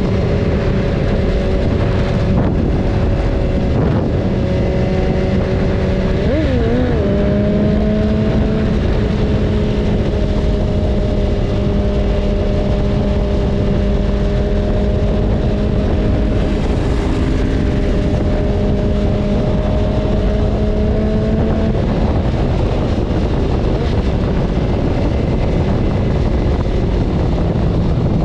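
BMW S1000RR inline-four engine running at steady cruising revs, heard onboard under heavy wind rush on the microphone. The engine note wobbles briefly about six seconds in, then creeps slowly higher, and drops away about 22 seconds in, leaving the wind noise.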